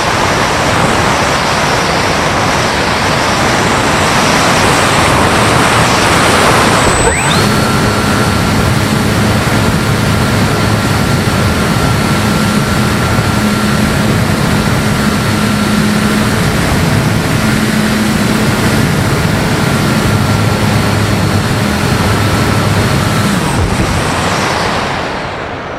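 Airflow rushing past a camera on an RC sailplane in flight. About seven seconds in, a steady motor whine with several overtones starts abruptly, holds an even pitch for about sixteen seconds, then cuts off, leaving the wind rush, which fades near the end.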